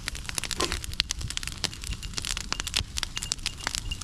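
Campfire of wood and beach plastic crackling, with many irregular sharp pops.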